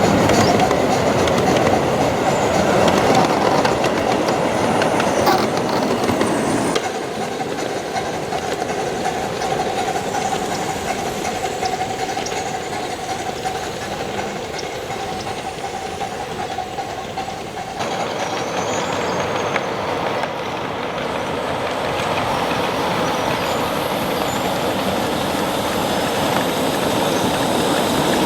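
Narrow-gauge train running along the track, its wheels clicking over the rail joints. Between about seven and eighteen seconds in, the sound changes abruptly and a steady whine joins the running noise.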